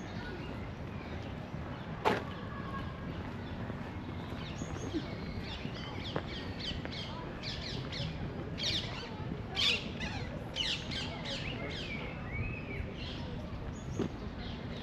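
Songbird singing: a quick run of short, high chirps, each dropping in pitch, densest midway through, over a steady low background rumble. A single sharp click about two seconds in.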